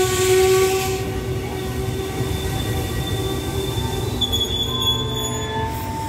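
Passenger coaches of a special express train moving slowly along the platform, with a low rolling rumble and steady high squealing from the wheels and brakes. The squeal changes pitch about four seconds in.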